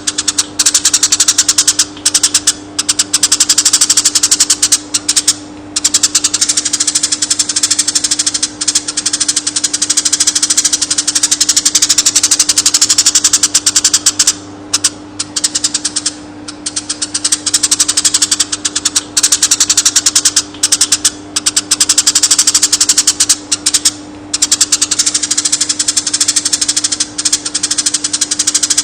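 Eurasian tree sparrow song: long rolling runs of very rapid chirps, broken by a few short pauses, over a steady low hum.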